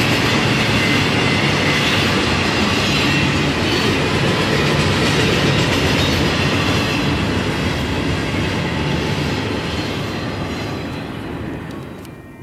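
Double-stack intermodal container train rolling past, its steel wheels running over the rails. The sound fades as the last cars go by, then drops away sharply near the end.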